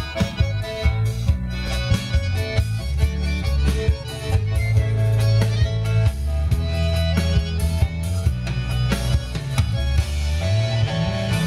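Band music with no singing: a steady beat on drums, held bass notes and guitar.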